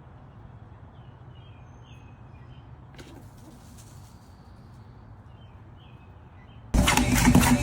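Faint short bird chirps over a low background hum. A sudden loud burst of sound starts near the end.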